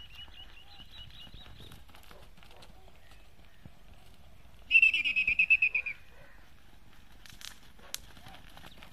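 A bird gives a loud, fast chattering trill lasting about a second, starting near the middle, after a fainter similar trill at the start. Two sharp clicks come near the end.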